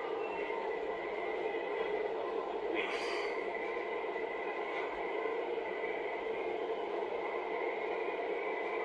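A machine running steadily with a continuous hum and a thin high whine, and a brief hiss about three seconds in.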